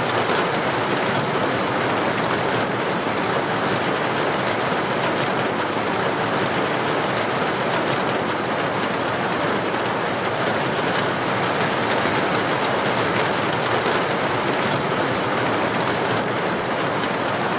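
Heavy rain falling steadily on a street, a dense even hiss of drops hitting the pavement.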